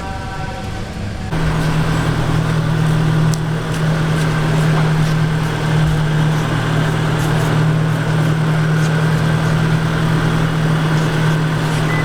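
Modified car's exhaust running at a steady low idle, a loud, even low drone that comes in suddenly about a second in.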